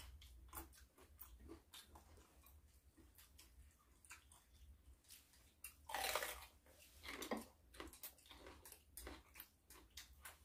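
Faint crunchy chewing and biting of raw vegetables such as cucumber, with many small mouth clicks and louder crunches about six and seven seconds in.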